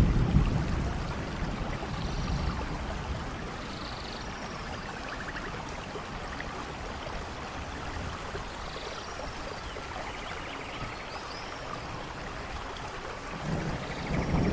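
Steady rainforest rain, with a low rumble of thunder dying away over the first couple of seconds and another building up near the end. Faint, short, high chirps and trills sound over the rain.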